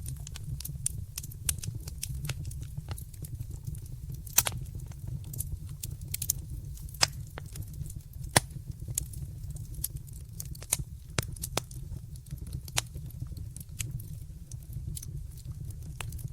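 Wood fire in a fireplace crackling: irregular sharp pops and snaps, a few louder ones, over a steady low rumble of the burning fire.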